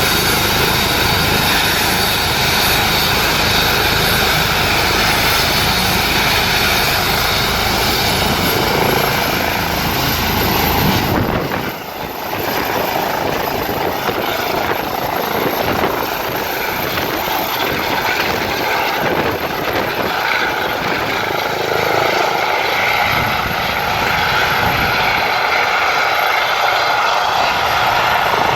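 Airbus EC135 helicopter running, its turbines whining steadily with the rotor noise under it. The high whine rises in pitch about eight seconds in and again a little later.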